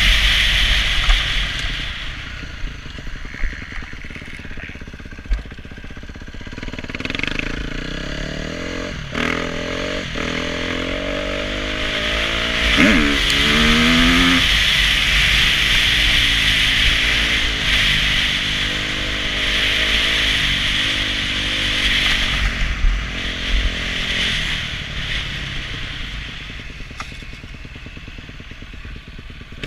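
Motocross bike engine running hard, its revs rising and falling repeatedly as it accelerates and backs off around the track, with a sharp burst of revs about thirteen seconds in.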